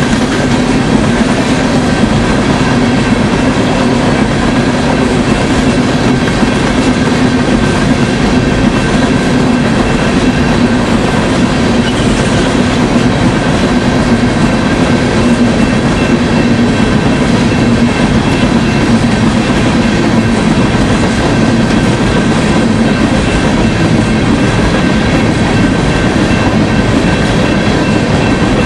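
Loaded-train rail noise from a BNSF unit coal train's gondola cars rolling past close by: a steady, loud rumble of steel wheels on rail with clickety-clack from the rail joints. Faint, steady high-pitched ringing runs over it.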